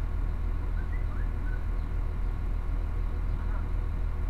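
Steady low hum of a standing passenger train, heard from inside the carriage, with a few faint high chirps about a second in.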